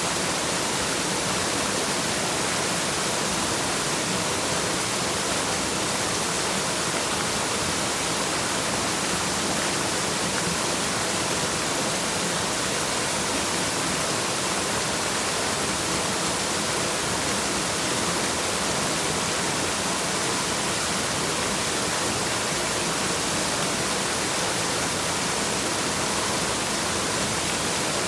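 Waterfall: a steady, unbroken rush of falling water, with the most energy in the hiss.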